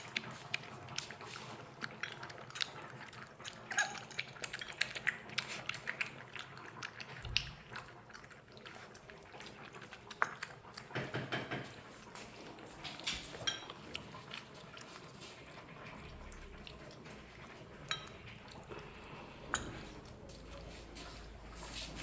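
Saint Bernard puppies lapping formula milk from a dish: a steady run of small, irregular wet clicks.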